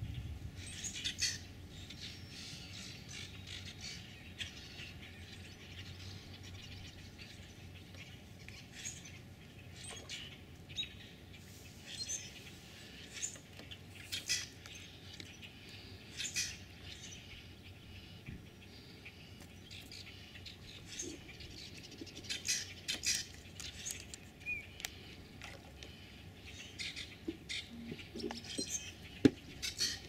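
Small birds chirping faintly, with scattered short high chirps and clicks over a quiet, steady outdoor background.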